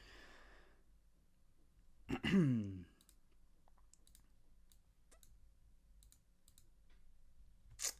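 A man's breathy exhale, then a loud voiced sigh sliding down in pitch about two seconds in, followed by scattered soft clicks.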